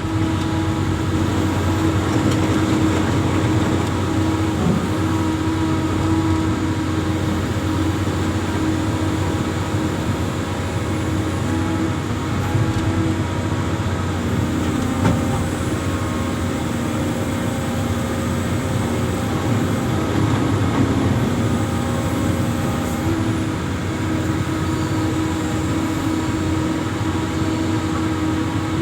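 Amphibious excavator's diesel engine running steadily, its pitch shifting slightly now and then.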